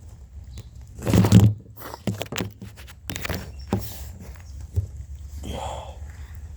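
Handling noises: a few sharp knocks and rustles, with a louder rushing scrape about a second in.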